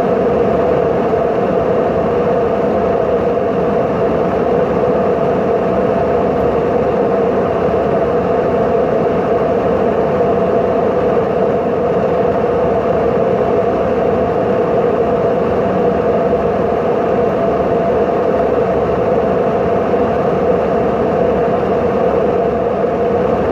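Steady, unbroken roar of an airplane's engines and rushing air, holding one level throughout.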